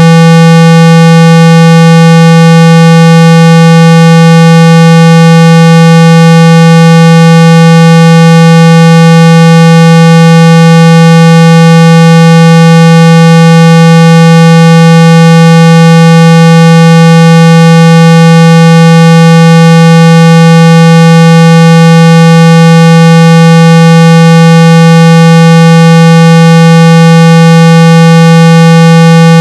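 Electronically generated 165 Hz tone played at full volume, a steady low buzz with overtones that never changes. It is a speaker-cleaning tone, meant to vibrate water and dust out of an iPhone's speaker.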